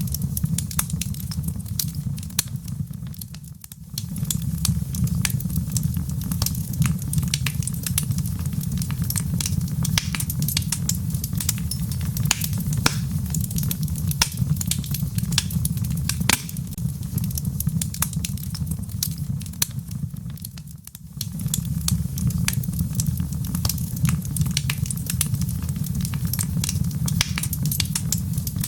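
Wood fire crackling in a fireplace: dense, irregular pops and snaps over a steady low rumble. The sound briefly drops away about three and a half seconds in and again about twenty-one seconds in.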